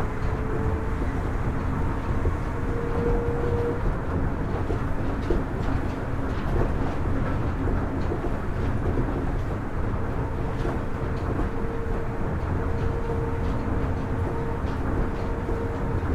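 Kitakyushu Monorail Series 1000 train running at steady speed between stations: a continuous rumble with a faint, steady whine from its Hitachi IGBT-VVVF inverter-driven traction motors.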